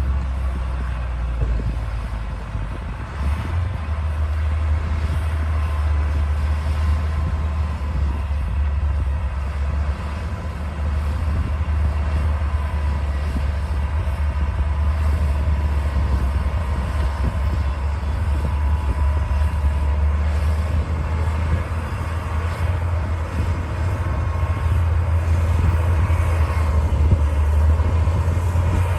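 D60 crawler bulldozer's diesel engine running steadily, a deep drone with a faint steady whine above it.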